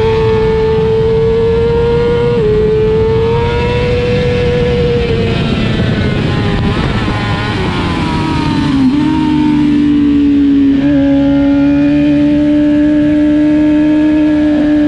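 Race motorcycle engine heard onboard at high revs, over a rush of noise. The pitch climbs, dips briefly at a gear change about two seconds in, falls away over a few seconds in steps around the middle, then holds steady at lower revs.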